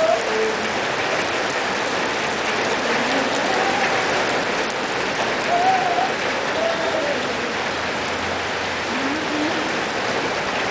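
Steady rain falling on a wet asphalt road, an even, unbroken hiss.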